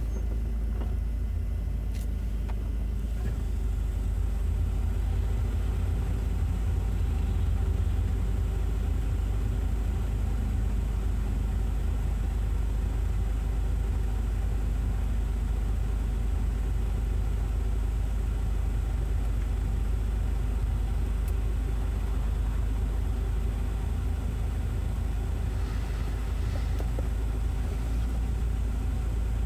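Steady low rumble of a car running, with faint steady hum tones above it.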